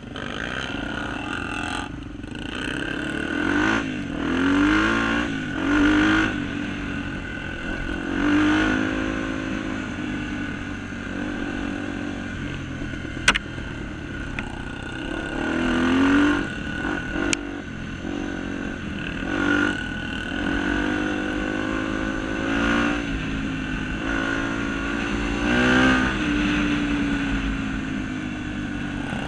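Honda Tornado trail motorcycle engine revving up and easing off again and again, its pitch rising and falling every few seconds. There is one sharp click about thirteen seconds in.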